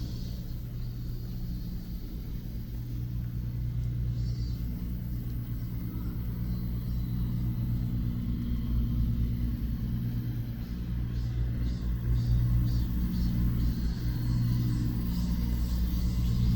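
City road traffic: a steady low engine rumble and hum from passing vehicles, growing somewhat louder in the second half.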